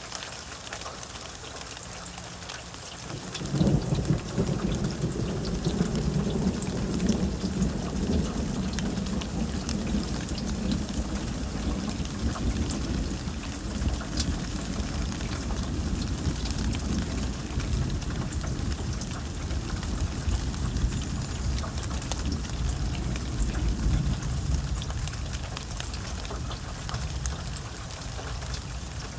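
Steady rain with the ticking of individual drops, and a long peal of thunder that breaks in with a sudden low rumble a few seconds in and slowly dies away over some twenty seconds.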